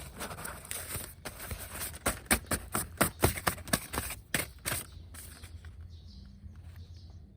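A quick, irregular series of sharp clicks and knocks, thickest in the middle, then thinning out so that only a faint low hum is left near the end.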